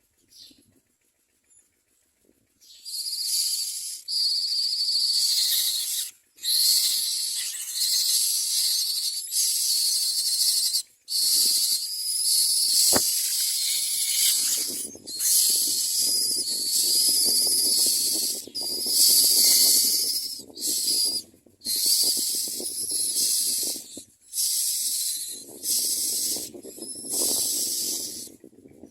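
Common myna nestlings begging with raspy, hissing calls in repeated bouts of one to three seconds, with short pauses between them. A single sharp click about 13 seconds in.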